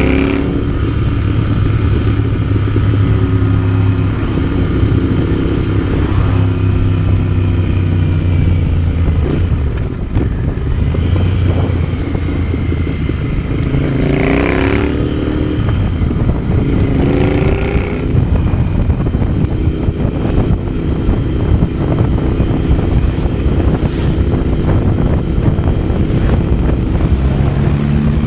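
Motorcycle engine running under way, heard from the rider's position, its pitch rising as it accelerates twice in the middle.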